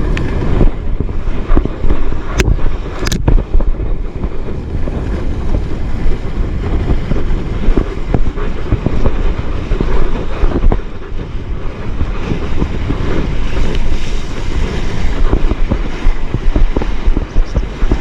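Strong wind buffeting a GoPro microphone, with the sea rushing around it, gusting unevenly. Two sharp clicks come about two and three seconds in.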